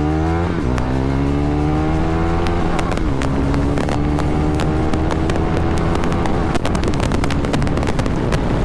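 KTM 390 Duke's single-cylinder engine pulling through the gears: its pitch rises, drops at upshifts about half a second and three seconds in, then climbs slowly. Many sharp crackles come through in the second half.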